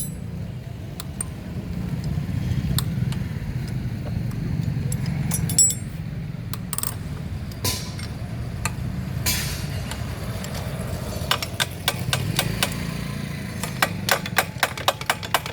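Metal hand tools and engine parts clinking and clicking as a motorcycle engine is taken apart, with a quick run of clicks near the end. A steady low hum runs underneath.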